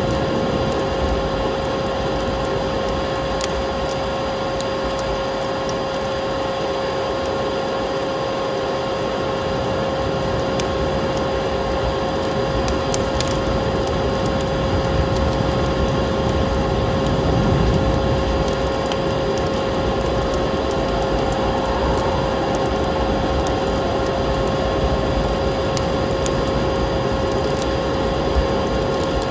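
Vacuum cleaner running steadily with a constant motor hum and whine, mixed with the scattered pops and crackles of a wood fire.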